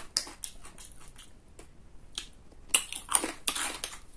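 Crunchy food being bitten and chewed close to the microphone: scattered crunches at first, then a quick run of loud crunches about three seconds in.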